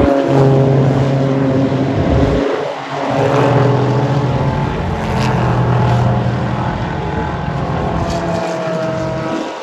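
Race car engines at high revs passing at speed, one car after another, loud throughout, with a brief lull about two and a half seconds in and another near the end.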